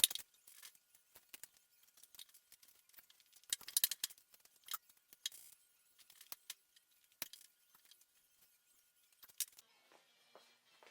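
Scattered light clicks and small metallic rattles of hand work. They are loudest at the start and in a quick cluster about four seconds in.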